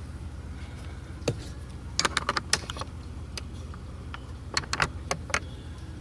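Irregular light clicks and taps of a screwdriver and hands working at small Phillips screws in the plastic dashboard trim, a single click and then short clusters of several, over a steady low hum.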